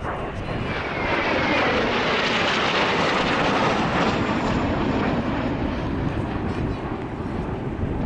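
Blue Impulse Kawasaki T-4 jet passing low overhead. Its engine roar swells quickly, peaks with a falling pitch, and then fades.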